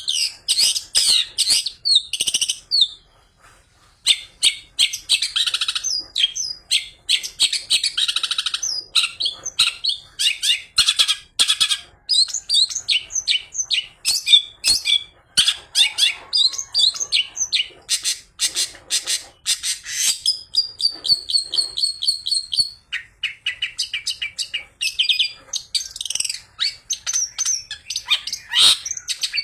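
Long-tailed shrike singing a fast, varied song of chirps and trills laced with mimicked calls of other birds. There is a short pause about three seconds in and a run of evenly repeated notes around twenty seconds in.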